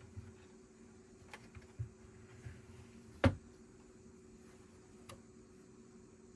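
Plastic Lego bricks being handled and pressed together: a few small clicks and taps, with one sharp snap a little past halfway, over a faint steady hum.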